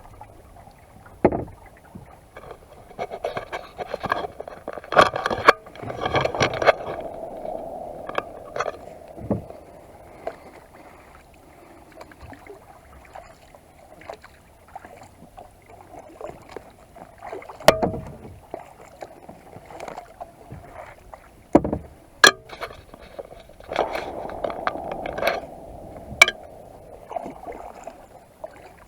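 Kayak paddling: paddle blades dipping and splashing in the water in spells of strokes, with scattered sharp knocks and clicks.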